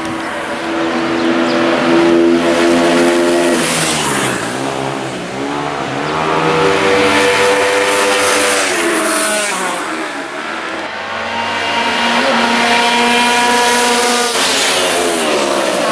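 Racing motorcycle engines at high revs, the pitch dropping twice as they brake and shift down, then climbing again through upshifts.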